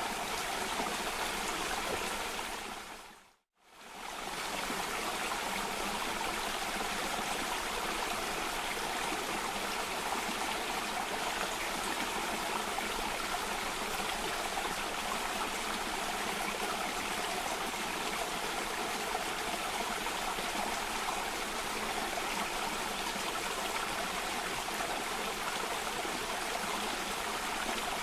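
Cascading stream water running steadily, an even rushing hiss. About three and a half seconds in it fades out to silence for a moment and fades straight back in.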